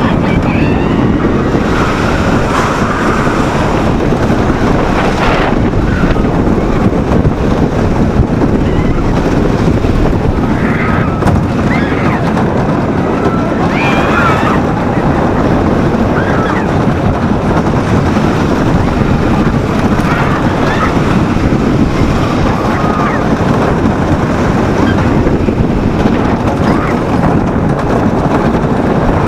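Wooden roller coaster train running at speed along its wooden track, a steady loud rumble mixed with wind on the microphone. Riders give short shouts and screams at a few points.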